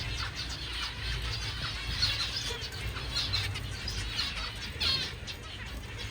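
A room full of captive zebra and Gouldian finches chirping and calling, with many short, high calls scattered throughout, over a steady low rumble.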